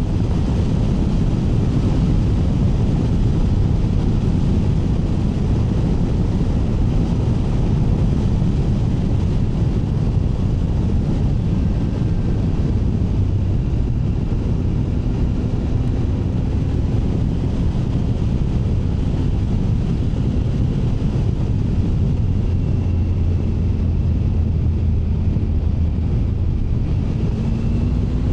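Steady wind rumble on the microphone of a moving motorcycle, with the Triumph Tiger 900's three-cylinder engine running underneath at a steady cruise.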